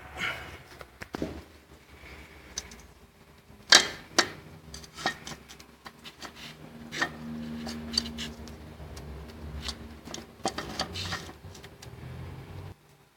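Scattered metallic clicks and knocks, with two loud knocks about four seconds in, over a low steady hum; the sound cuts off shortly before the end.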